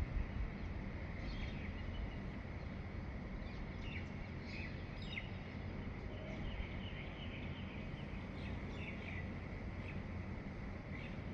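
Birds chirping at dawn in short, scattered calls, busiest in the middle stretch, over a steady low background noise.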